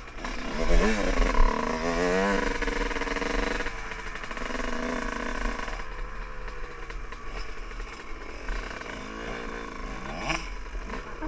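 Dirt bike engine revving, its pitch rising and falling about a second in and again near the end.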